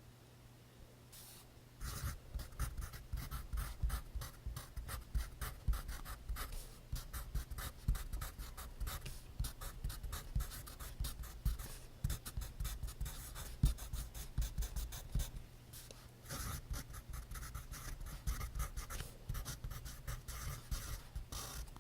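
Pencil writing on notebook paper: quick, dense scratching strokes that start about two seconds in and run on with only brief pauses.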